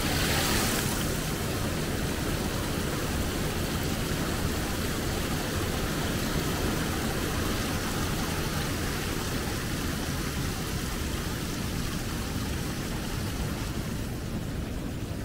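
Waterfall's water falling and rushing in a steady, unbroken hiss, with a brief louder hiss in the first second.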